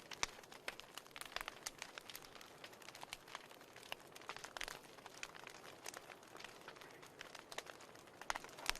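Fire crackling in a fireplace: irregular sharp pops and snaps over a soft hiss, with louder pops just after the start and near the end.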